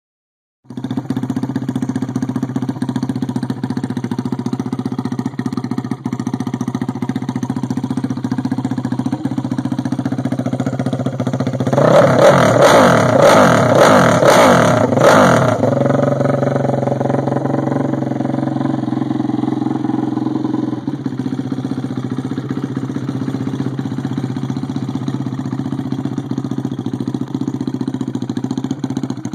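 Yamaha YFZ450 drag quad's built 470cc single-cylinder four-stroke engine idling steadily, then revved in a string of quick throttle blips about twelve seconds in before dropping back to idle.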